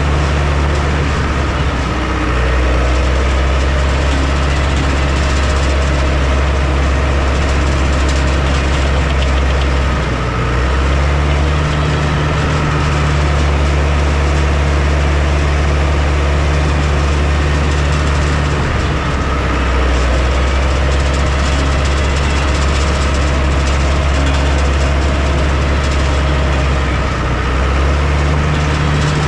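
Heavy construction machine's engine running steadily and loudly. Its low note changes briefly about a third of the way in, again near two-thirds, and near the end, as the load on the engine shifts.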